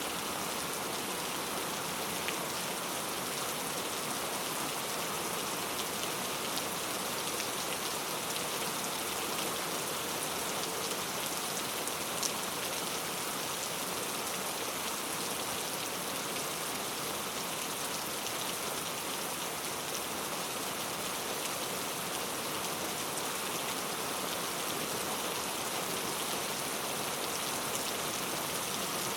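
Heavy rain falling steadily on mango tree leaves, an even patter with a few louder single drops now and then.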